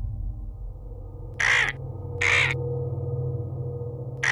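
Three short, harsh, crow-like bird caws, the first two close together and the third near the end, over a low steady drone.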